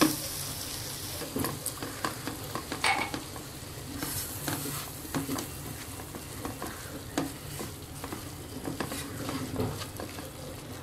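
Ground spice masala (chilli, turmeric and coriander powder with ginger-garlic paste) sizzling in hot butter and oil in a kadai, stirred and scraped round the pan with a silicone spatula in short, irregular strokes.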